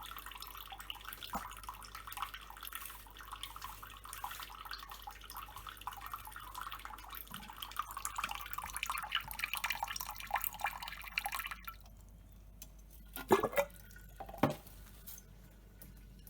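Water splashing and dripping in a cockatiel's bath, stopping about twelve seconds in. Then two short, loud sounds with a falling pitch, about a second apart.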